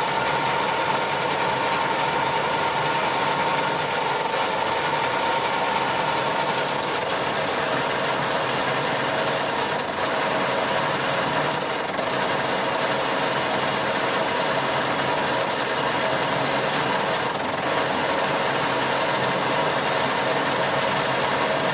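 Colchester Master lathe running steadily under load while an 8.5 mm drill bores into the workpiece in the chuck: a constant mechanical hum with a steady whine.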